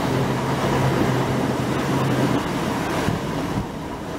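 Passenger train running past below and moving away: wheel rumble and rush with a steady low hum. The hum stops about two and a half seconds in, and the noise fades over the last second.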